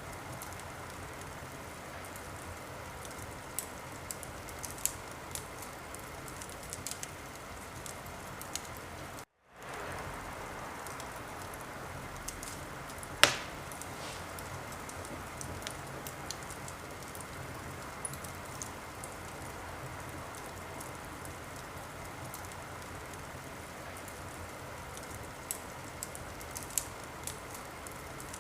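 Wood fire crackling: a steady hiss with scattered small pops and one much louder pop about 13 seconds in. The sound cuts out for a split second about nine seconds in, then fades back up.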